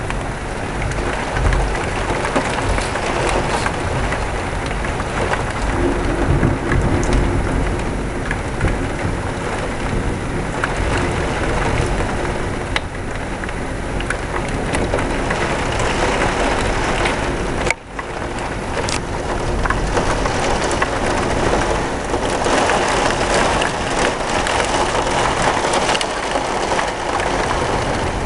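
Heavy thunderstorm rain pouring steadily, with low rumbling thunder in the first several seconds.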